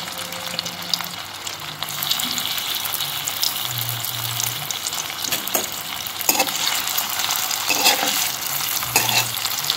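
Corn-and-potato cutlets shallow-frying in a spoonful of hot oil in a thin-bottomed kadhai: a steady sizzle. In the second half a metal spatula clicks and scrapes against the pan a few times.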